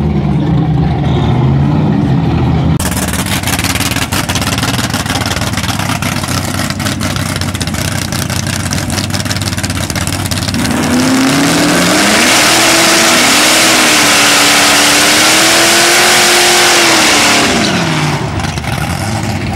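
Drag race car engine at full throttle: a harsh, loud run from about three seconds in, then from about eleven seconds a clear engine note that rises, holds and falls away near the end.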